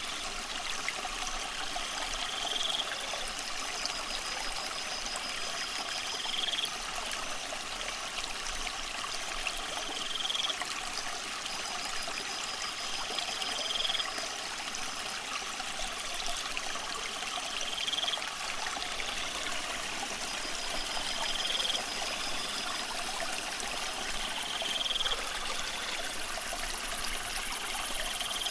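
Aquarium water trickling and splashing steadily, as from a filter return falling into the tank. A short high chirp repeats about every four seconds, with a faint pulsing trill above it.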